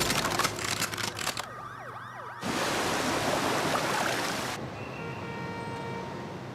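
Film car-chase sound effects: a rapid clatter of crashes, then a siren wailing in quick up-and-down sweeps. About two and a half seconds in, a sudden loud rushing noise cuts across it and fades into quieter steady tones.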